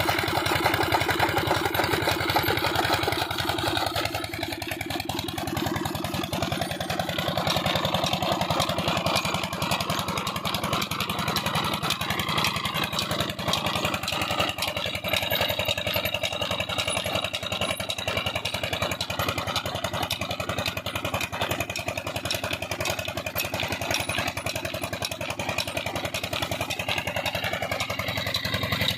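Old Petter stationary diesel engine running steadily with a rapid, even beat while it drives a chaff cutter.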